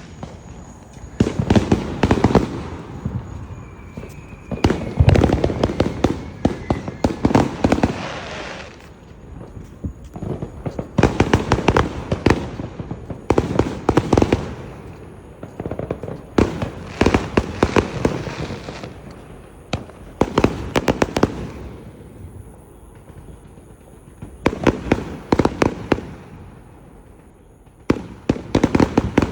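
Fireworks going off: volleys of rapid, sharp cracks and pops, one cluster after another every couple of seconds, with a few short lulls between them.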